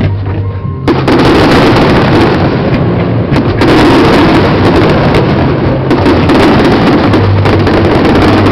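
Fireworks show: a dense run of shell bursts and crackling that starts suddenly about a second in and goes on loud and unbroken.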